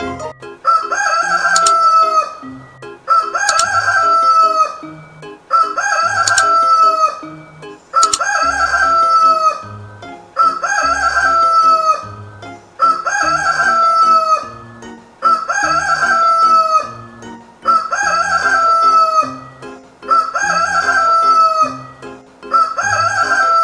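A rooster crowing cock-a-doodle-doo, the same crow repeated about every two and a half seconds, about ten times.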